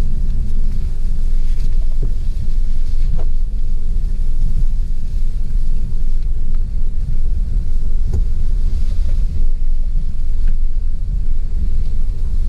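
Steady, loud low rumble, with a few faint knocks about two and three seconds in and again near eight seconds.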